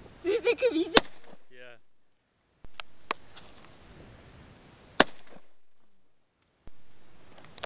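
Two single shots from an AK-pattern rifle, about four seconds apart, the first about a second in. A few words are spoken just before the first shot, and there are two fainter clicks between the shots.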